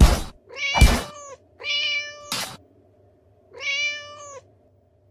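Domestic cat meowing three times, each meow short and level in pitch. A few sharp thumps fall among the first two meows.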